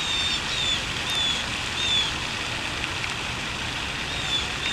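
A small bird giving a series of short, high, clear chirps, several in the first two seconds and two more near the end, over a steady rushing hiss.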